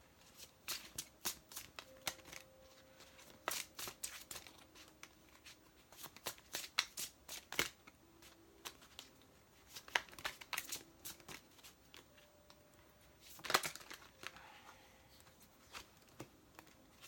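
A deck of tarot cards being shuffled and handled by hand: irregular soft clicks and flutters of cards, with a louder flurry about three quarters of the way through.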